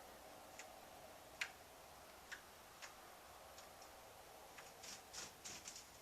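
Near silence with a faint steady hum, a few scattered soft clicks, and a brief patch of rustling about five seconds in.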